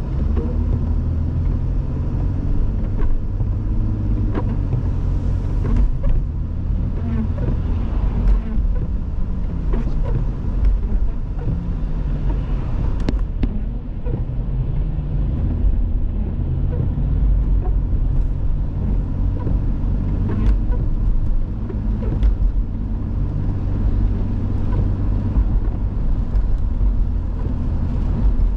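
Car driving on a snowy road: a steady low engine and road rumble, with scattered faint clicks and knocks.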